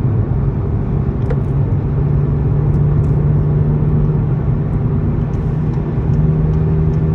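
Car with a TCR muffler and downpipe cruising at steady highway speed: a constant low exhaust drone over road and tyre noise.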